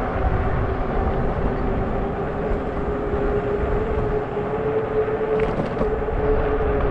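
Fat-tire e-bike riding along, with wind rushing on the microphone and a steady whine that rises slightly in pitch.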